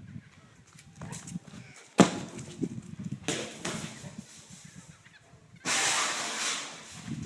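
A dog making rough, breathy noises, with a sharp knock about two seconds in and a louder rush of noise lasting about a second near the end.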